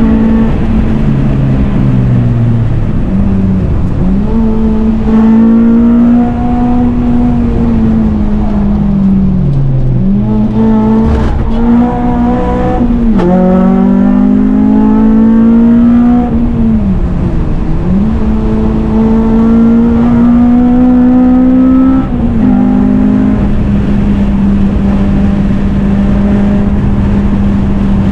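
Honda Civic Type R (FN2) four-cylinder engine with a cat-back exhaust, driven hard on track: its pitch climbs through the revs and drops sharply several times as gears change, then holds steady for the last few seconds.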